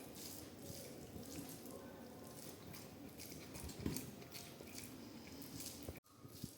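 Wet eating sounds of a meal of rice and curry: chewing and soft squishing with small clicks. The sound cuts out abruptly for a moment about six seconds in.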